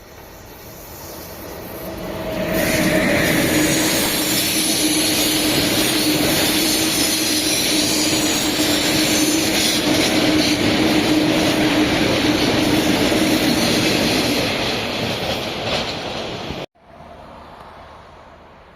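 A train passing close by on the line: it swells in over the first couple of seconds into a loud, steady rush of wheels on rails with a steady humming tone underneath. It eases off slightly, then cuts off suddenly near the end, leaving a faint hiss.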